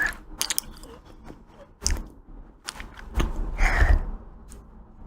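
Close-miked mouth sounds of eating ice cream: bites and chewing with sharp, wet clicks and smacks, loudest a little past the middle.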